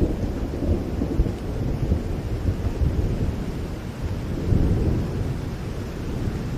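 Steady rain with a continuous low rumble of thunder that swells about four and a half seconds in.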